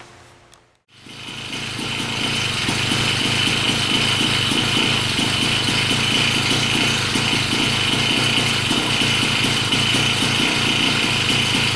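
Small 80 cc motorized-bicycle engine running steadily at an even speed, coming in about a second in after a brief moment of silence.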